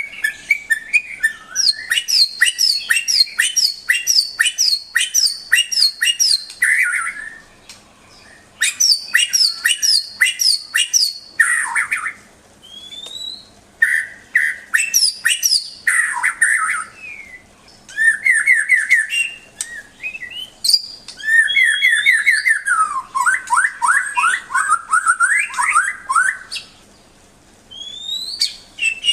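White-rumped shama (murai batu) singing in varied phrases of rapid repeated chips, trills and clear rising and falling whistles, with short pauses between bursts.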